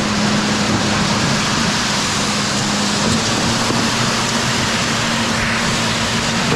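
Boat motor running steadily under throttle, pushing to pull a stuck boat free, over a loud steady rush of water and wind.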